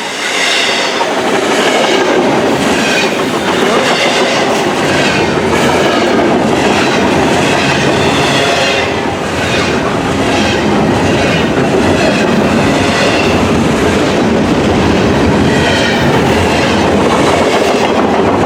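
A CN intermodal freight train's cars rolling past close by: a loud, steady rumble with a repeating clatter of wheels over the rail joints.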